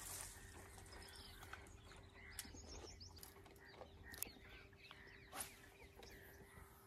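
Near silence with faint bird chirps, a few soft clicks and a faint steady hum.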